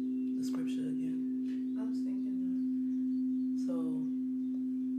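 A singing bowl's tone held steady, a low hum with a few higher overtones, with a few brief sharp sounds over it.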